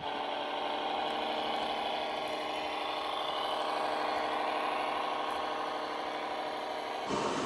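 Engine sound of an RC model vehicle idling steadily at an even pitch, cutting off suddenly near the end.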